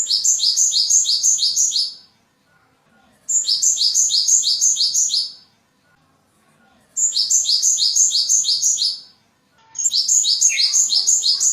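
Cinereous tit (gelatik batu) calling in four bursts, each lasting about two seconds and starting every three to four seconds. Each burst is a quick run of about seven high notes, around four a second.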